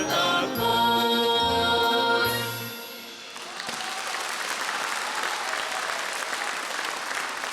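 A song ends on a held final chord of voices and instruments. Then, about three and a half seconds in, an audience breaks into steady applause.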